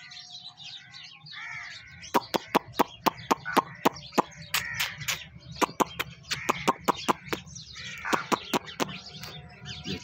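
Birds calling in an aviary: a run of sharp, clicky chirps, about three a second, from about two seconds in until near the end, over softer chirping.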